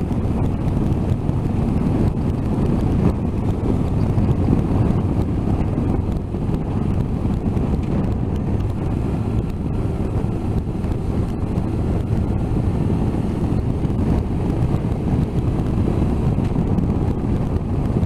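Steady wind rush over the microphone of a motorcycle at road speed, with the engine and road noise running underneath.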